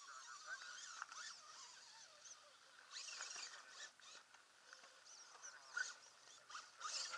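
Faint bird chirps and calls over a quiet outdoor background.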